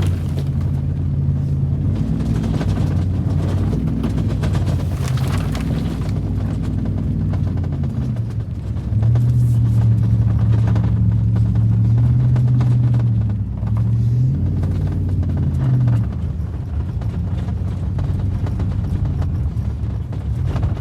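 Vehicle engine under load pushing through deep powdery snow drifts, its pitch stepping up and down, then holding a louder, steady drone about nine seconds in for several seconds, with another louder stretch shortly after.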